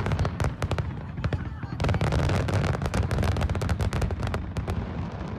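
Fireworks going off: dense rapid crackling over a continuous low rumble of booms, with a thicker burst of crackles about two seconds in.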